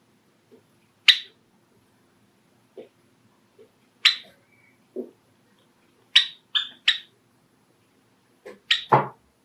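Pet Java sparrows giving short, sharp single call notes: one about a second in, another about four seconds in, then a quick run of three and two more near the end, with a few faint soft taps between.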